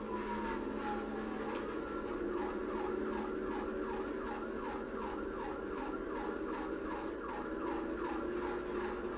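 Police car siren: one falling wail that switches about a second and a half in to a fast yelp of about two sweeps a second, over a steady low hum.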